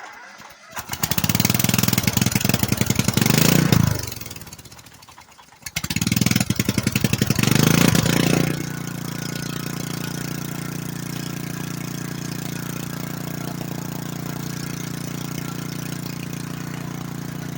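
Small engine running through a newly fitted steel exhaust pipe. It fires up and runs hard for about three seconds, fades almost to stalling, then picks up and runs hard again. About eight seconds in it settles into a steady idle.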